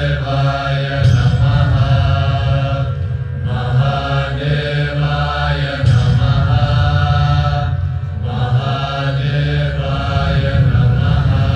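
Devotional mantra chanting in repeated phrases a few seconds long, with short breaks between them, over a steady low drone.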